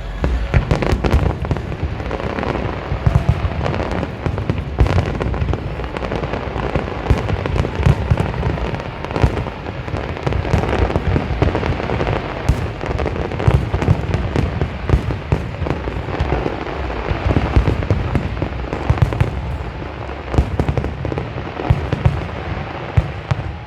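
Aerial fireworks going off in rapid succession: a dense, unbroken run of bangs and crackles with a deep rumble beneath, many shells bursting close together.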